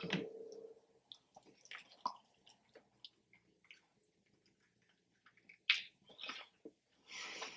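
A person biting into and chewing a fried chicken wing: scattered sharp crunches and wet mouth sounds, with a few louder crunches in the last two seconds.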